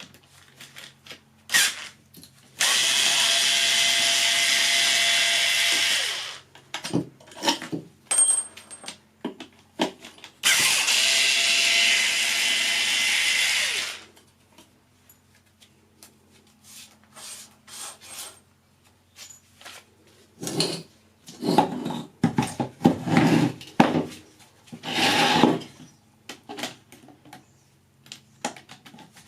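A handheld power tool runs twice, each time for about three and a half seconds, with clicks and knocks of metal parts being handled between and after the runs.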